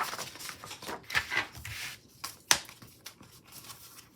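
Paper rustling as planner sheets and sticker pages are handled, with a sharp tap about two and a half seconds in.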